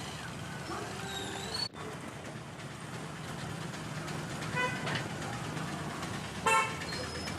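Road traffic running steadily, with two short vehicle horn toots, the second and louder one near the end.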